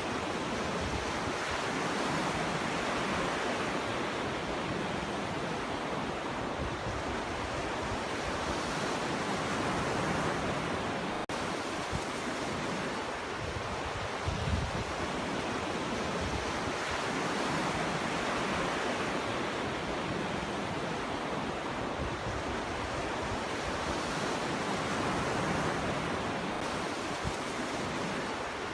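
Ocean waves breaking on a beach: a continuous rushing wash that swells and eases every several seconds, with a brief low buffet about halfway through.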